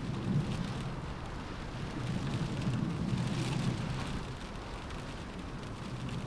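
Steady rain with wind, a low rumble swelling briefly near the start and again for about two seconds in the middle as gusts hit.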